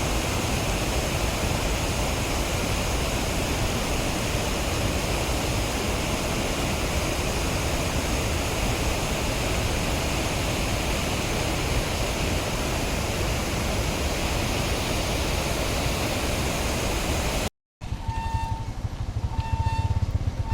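A steady, even rushing noise. It cuts off abruptly near the end, and after the cut three short, evenly spaced beeps sound over a low rumble.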